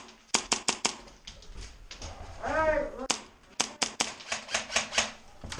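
HPA-powered Hi-Capa airsoft pistol firing rapid semi-automatic shots: a quick string of about five, then after a pause a longer run of about a dozen at four to five shots a second.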